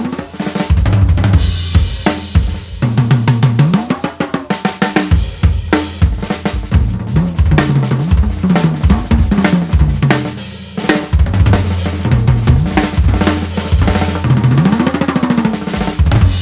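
Drum kit played in a fast groove of toms, bass drum, snare and cymbals while air from a compressor is blown into the drums, so the tom pitches bend up and down as the pressure inside the shells stretches the heads. It ends on a last hit ringing out.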